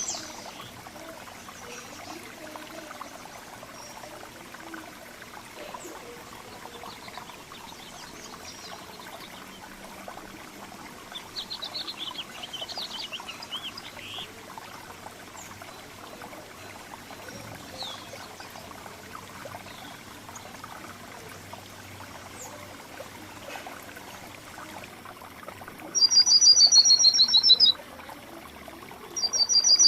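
Songbirds calling over a steady low background hiss: scattered soft chirps, a quick twittering run about halfway, then two loud, clear trills near the end, each falling in pitch and lasting about two seconds.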